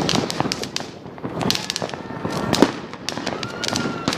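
Fireworks going off: many overlapping bangs and sharp crackling reports at uneven spacing, one louder bang a little past the middle. A thin high whistle comes in near the end.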